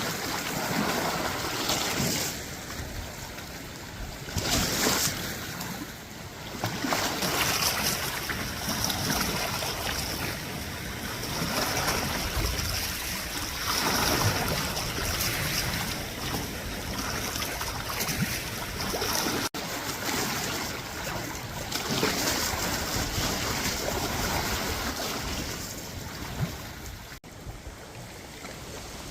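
Wind gusting over the microphone with small waves lapping at the reservoir shore, rising and falling unevenly; the sound cuts out for an instant twice in the second half.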